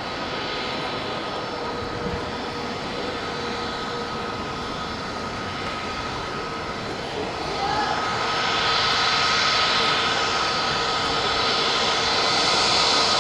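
Jet airliner engines running with a steady whine over a hiss, growing louder about eight seconds in.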